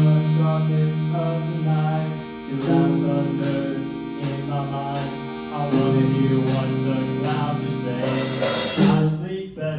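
A live band plays an instrumental passage of a song: guitar chords ring steadily, and a regular beat of short high hits, about two a second, comes in about two and a half seconds in.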